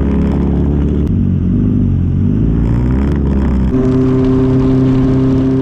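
Inline-four sport motorcycle engine running while riding. Its pitch dips and climbs back in the middle, then holds steady near the end.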